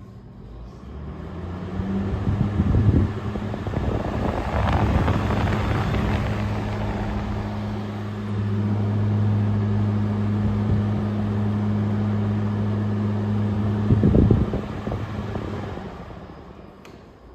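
2023 General Electric 5,000 BTU window air conditioner starting up and running. It spins up about a second in, runs with a steady low hum and rushing air, gives a brief clatter about 14 seconds in, then winds down and stops.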